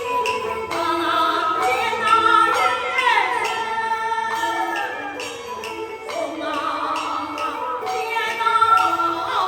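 Beiguan fulu opera music: a sung melodic line that bends and glides in pitch over the ensemble's accompaniment, with regular percussive strokes keeping time.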